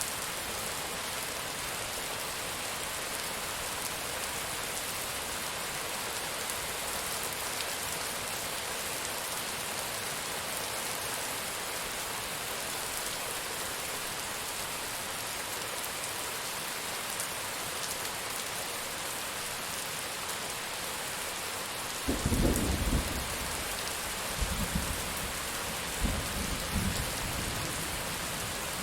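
Steady heavy rain falling, with rolling thunder breaking in about three quarters of the way through as a series of low rumbles and sharper cracks.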